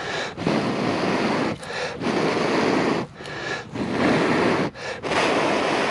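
A person blowing steadily into a tinder bundle to bring a smouldering ember from charred punk wood up to flame: four long breaths, each about a second, with short pauses between.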